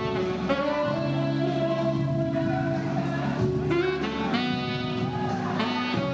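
Tenor saxophone playing a slow melody of held notes over a sustained accompaniment, with a couple of notes that bend in pitch.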